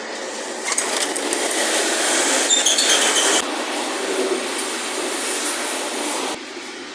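Noise inside the carriage of an EPL9T electric train. There is a brief run of high tones about two and a half seconds in, and a knock about six seconds in, after which it is quieter.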